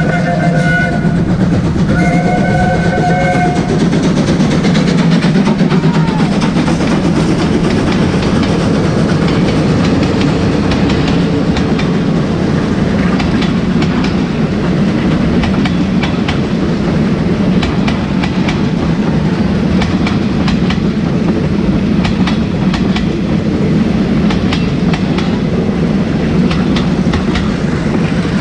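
Passenger train arriving and passing close by: a chord-like train signal sounds twice in the first few seconds, then a steady heavy rumble as the train rolls past, with wheels clicking over the rail joints.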